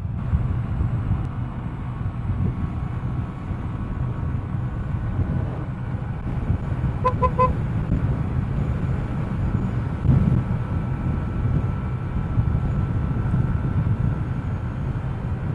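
Wind buffeting and motorcycle riding rumble, picked up by an action camera's external mic with a wind muffler, a steady low rumble throughout. A vehicle horn gives three quick beeps about seven seconds in.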